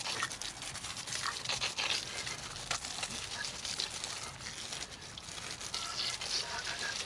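Water spray rinsing degreaser off a motorcycle chain: a steady hiss with irregular splattering crackles.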